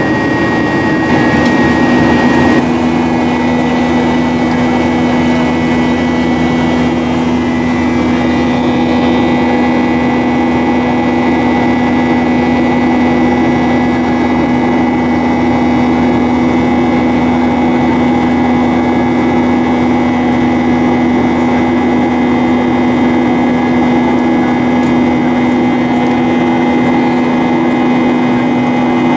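Boeing 737-800 in flight, its CFM56-7B jet engines and the airflow heard as a loud, steady drone with a constant hum; the pitch of the tones shifts slightly about two and a half seconds in, then holds.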